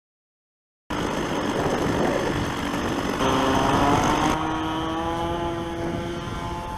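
O.S. 46 AX two-stroke glow engine of a radio-controlled Spitfire model running at high revs, cutting in suddenly about a second in. Its pitch rises, steps up briefly past the middle, then drops and slowly falls.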